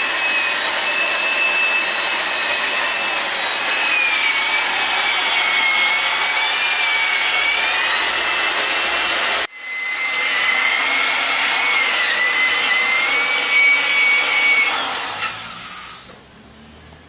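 Power sander running against an engine intake manifold, stripping off grease and old paint, with a whine that wavers in pitch as the load changes. It cuts out briefly about halfway through, starts again, and stops shortly before the end.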